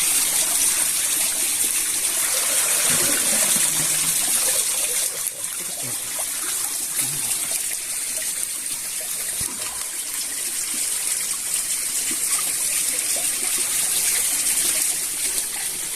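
Flowing stream water running steadily, a constant rushing trickle.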